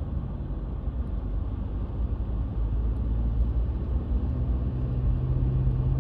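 Car interior road noise while driving: a steady low engine and tyre rumble, with the engine hum rising slightly about four seconds in.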